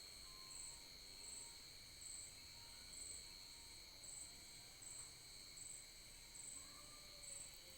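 Faint insect chorus: a steady high trill with a higher chirp repeating roughly every 0.7 seconds.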